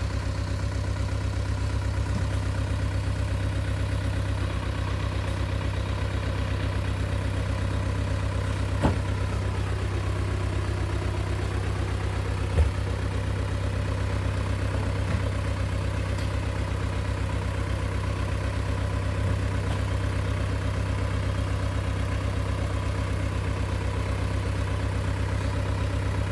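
Truck engine running steadily with a low, even drone, with a few brief knocks over it, the loudest about twelve seconds in.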